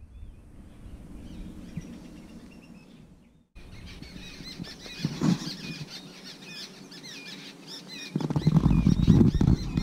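Small birds chirping repeatedly, several short high calls a second, after a cut about a third of the way in. Near the end a loud low rumble and buffeting sets in and drowns out the birds.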